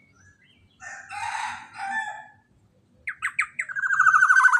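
Loud bird calls: a harsh, scratchy call, then a quick run of notes leading into a long buzzy, pulsing call near the end.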